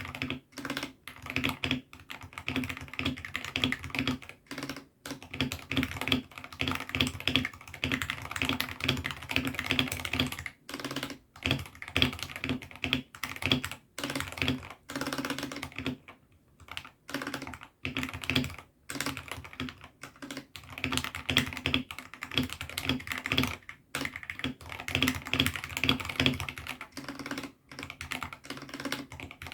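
Continuous typing on a mechanical keyboard fitted with AKKO Sakura linear switches: rapid key clacks with short pauses, and one longer break about halfway through.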